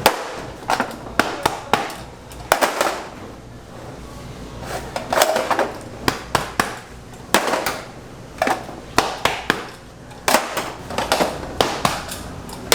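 Sharp knocks on a hard surface, coming in irregular clusters of a few quick strikes at a time.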